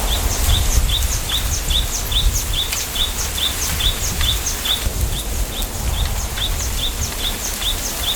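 A small bird repeating a short, slightly falling chirp over and over, about two to three times a second, in a bamboo grove, over a low rumble of wind.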